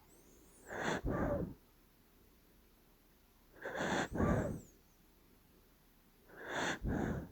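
Dachshund puppy snoring in its sleep: three snores about three seconds apart, each in two quick parts.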